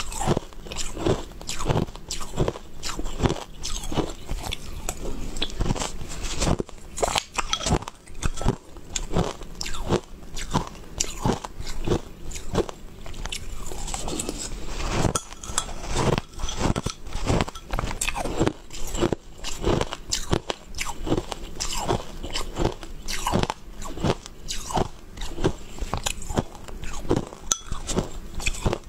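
Close-up chewing and biting of crunchy food: a steady run of crisp crunches, several a second, as mouthfuls are chewed.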